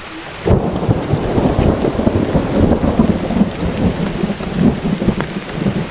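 Heavy rain falling steadily. About half a second in, a loud rumble of thunder breaks in and keeps rumbling over the rain.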